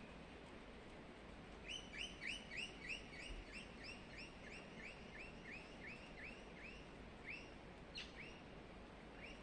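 A parrot giving a run of short, repeated chirping calls, about three a second and slowing, then two single chirps near the end.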